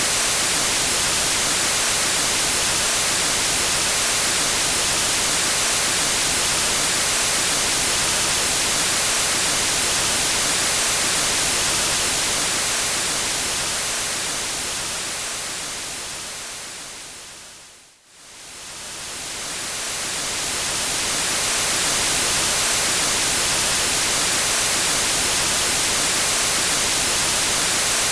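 Steady hiss of white noise like TV static, strongest in the high end. About two-thirds of the way through it fades down to near silence and swells back up over a few seconds, typical of a loop point in the track.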